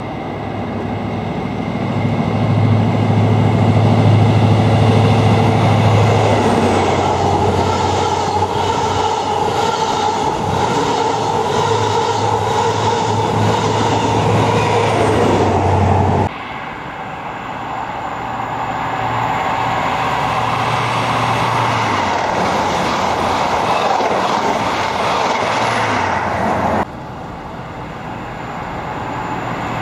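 Passenger trains running through a station at speed: a low drone and rolling wheel-on-rail noise that swells as each train nears and passes, then fades. The sound breaks off sharply twice between separate passes, and another train is heard approaching near the end.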